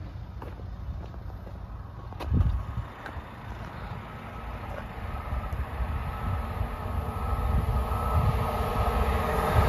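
Hull Trains Class 802 express approaching at speed: its noise builds steadily over the last few seconds, with a faint steady whine, over a low rumble. A single thump about two seconds in.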